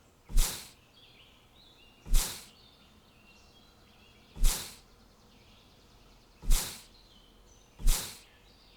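Five sharp whooshing sound effects at uneven intervals, each fading within about half a second, over a faint background of small birds chirping.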